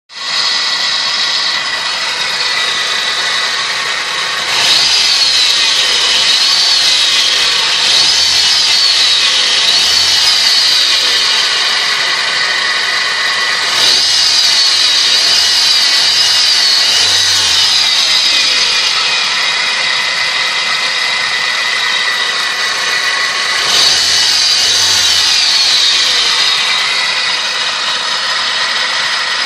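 Car power-steering pump whistling: a continuous high whine that repeatedly rises and falls in pitch, growing louder in three spells, about five, fourteen and twenty-four seconds in.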